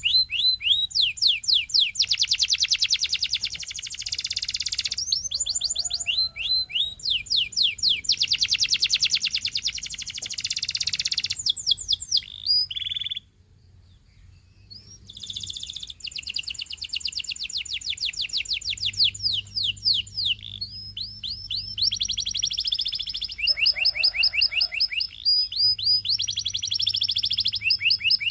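Canary singing: long trilled rolls of fast, evenly repeated high notes, one phrase after another, with a brief pause about halfway through.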